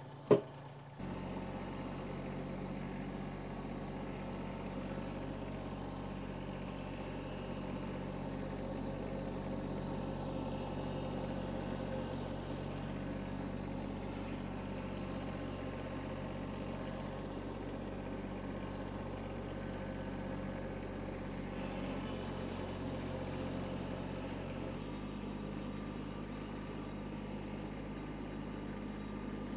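A sharp click, then an engine running steadily at an even speed, starting abruptly about a second in and shifting slightly in tone near the end.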